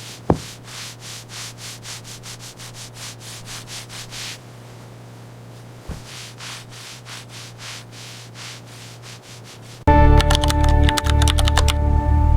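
Rhythmic scrubbing strokes, about four a second, over a steady low hum, louder for the first few seconds and then softer. There is a sharp knock just after the start and another midway. Loud music cuts in abruptly near the end.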